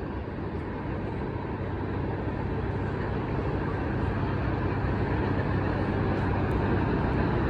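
Steady low rumble of a vehicle, growing slowly louder.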